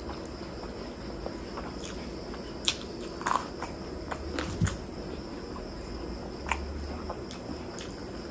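Close-miked eating by hand: wet chewing and lip smacks with scattered sharp clicks, as a mouthful of chicken curry and rice is chewed and the next handful is mixed. A steady faint high whine runs underneath.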